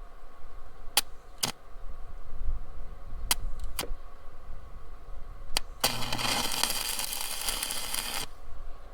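Arc welder tacking a washer onto a twisted-off bolt stub: several short arc strikes spread over the first six seconds, then a steady crackling weld lasting about two and a half seconds near the end.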